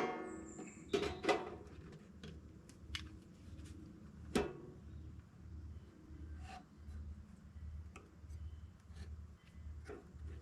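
Hand tools knocking and tapping while a birdhouse is being put together: a sharp strike with a short ring at the start, then a few more knocks over the next few seconds. A low, even pulsing hum runs underneath in the second half.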